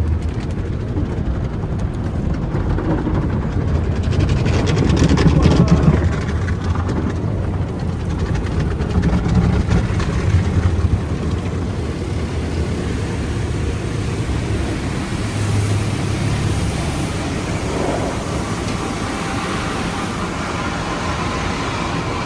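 Automatic drive-through car wash running, heard from inside the car: a steady rush of water spray and machinery over a low rumble, louder for a couple of seconds about four seconds in.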